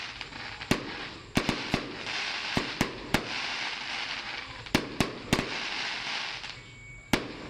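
Aerial fireworks shells bursting: about a dozen sharp bangs at irregular intervals, several in quick succession, over a continuous crackling hiss from the burning stars. The bangs pause for a moment before a last one near the end.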